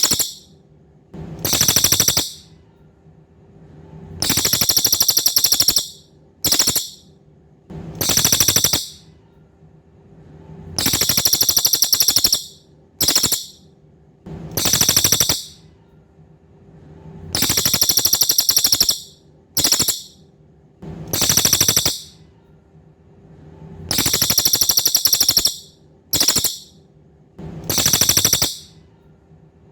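A cililin songbird singing very high-pitched, rapid buzzing trills in a repeating pattern: a long trill, a very short one, then a medium one, the group recurring about every six to seven seconds. A faint steady hum lies underneath.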